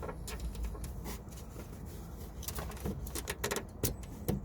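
Hands working the plastic fuel-pipe quick connectors onto a new diesel fuel filter: a run of sharp clicks and knocks, bunched in the second half, over a low steady hum.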